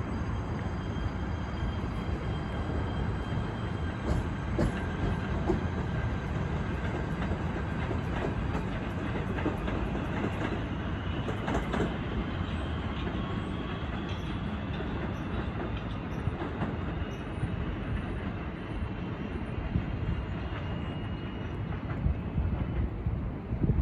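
A train running on the rails: a steady rumble, with a faint high whine that slowly rises in pitch through the middle.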